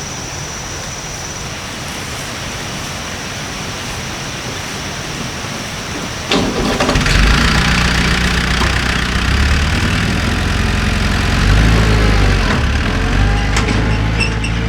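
A steady hiss. About six seconds in, a motor vehicle's engine starts abruptly and keeps running, its pitch rising and falling as it is revved.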